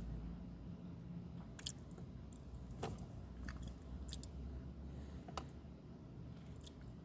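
A person chewing food with their mouth close to the microphone, with a few sharp wet mouth clicks over a low steady hum.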